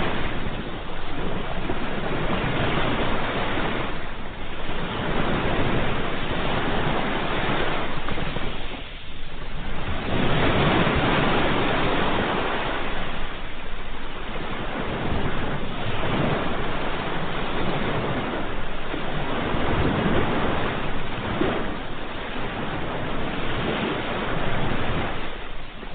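Ocean surf: a steady wash of waves breaking and receding, swelling and ebbing every few seconds, with one clear lull about nine seconds in.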